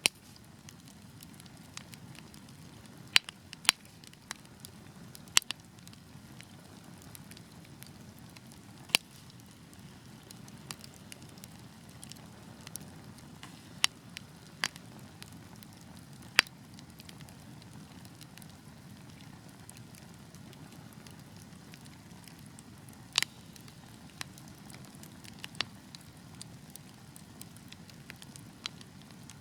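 Wood fire burning: a low, steady rush of flames with sharp, irregular pops and snaps from the burning logs, about a dozen of them louder than the rest.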